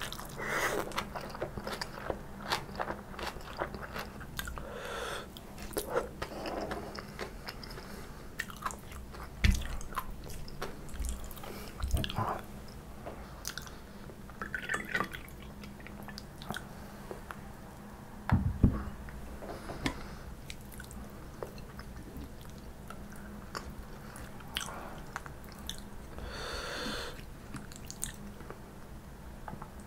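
Close-miked eating sounds of stir-fried kimchi and tofu: crisp crunching of the kimchi and wet chewing, with many small clicks of wooden chopsticks. About halfway through, soju is poured from a bottle into a shot glass. Two dull knocks stand out, about ten and eighteen seconds in.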